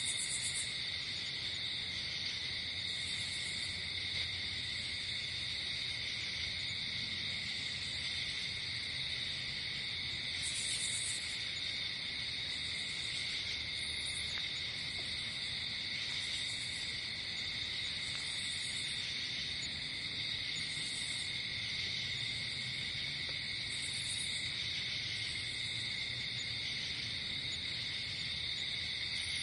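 Night insect chorus of crickets trilling steadily, with a higher, shorter chirp that comes back every few seconds.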